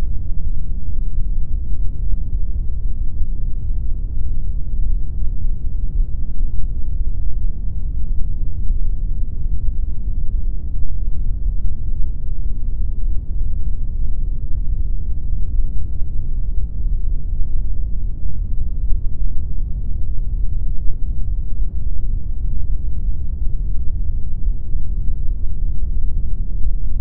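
Continuous pink noise: a steady, unchanging rush, deep and rumbly, with most of its weight in the low end and little hiss on top.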